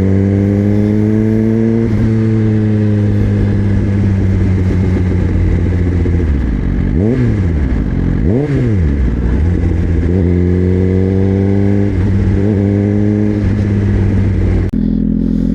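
Suzuki GSX-R1000 inline-four running through a LeoVince slip-on exhaust. The note holds and rises slowly, then two quick throttle blips shoot the revs up and back down about seven and eight and a half seconds in, followed by more rising pulls. Near the end the note drops abruptly to a steadier, lower tone.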